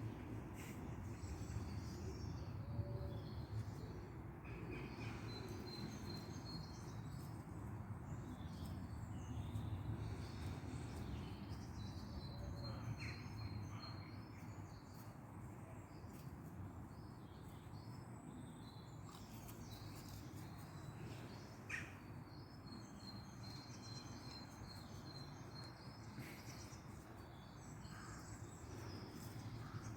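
Small birds chirping and trilling on and off over a steady low outdoor rumble, with a couple of faint taps.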